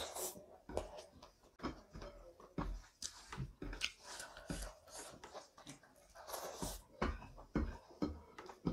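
Close-miked chewing and lip-smacking of a mouthful of rice and chicken curry, with irregular wet clicks several times a second. Fingers squish through rice on the plate.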